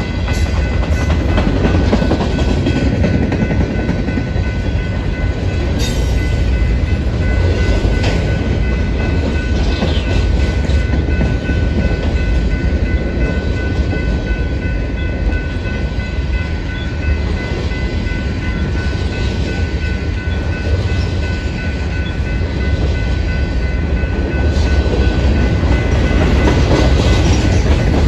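Freight cars of a passing Union Pacific freight train rolling by at close range: a steady low rumble and clatter of steel wheels on the rails.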